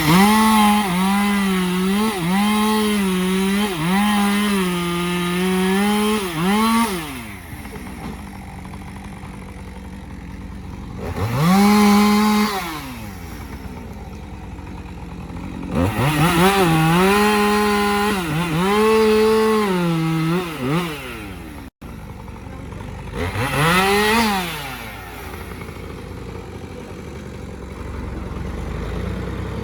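Two-stroke chainsaw revved up in four bursts, dropping to idle between them. In the two longer bursts the pitch repeatedly dips and recovers, as it does under load when cutting into logs.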